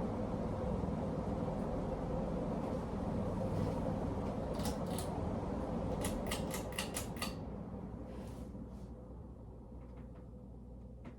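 Emerson Legend ceiling fan running with a steady hum. A quick run of sharp clicks comes about halfway through, and after it the fan's sound fades gradually as it slows down.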